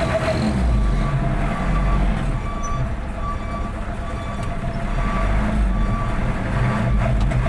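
Truck engine running, with a short high beep repeating about every two-thirds of a second.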